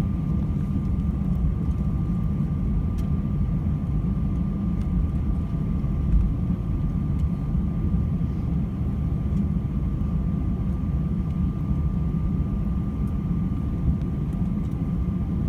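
Cabin noise of an Airbus A319-100 on the ground after landing: a steady low engine rumble with a thin, even whine running over it.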